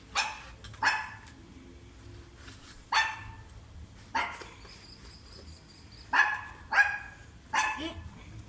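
A dog barking repeatedly, seven barks at uneven intervals.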